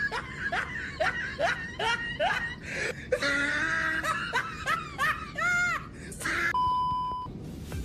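High-pitched laughter in quick, short rising squeals, about three a second, with a steady electronic beep of just under a second near the end.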